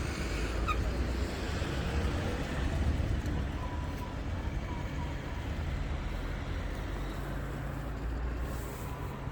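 Road traffic with engines running: a steady low rumble.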